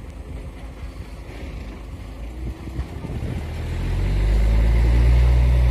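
Heavy diesel engine running, then revving up about two-thirds of the way through into a loud, deep, steady drone.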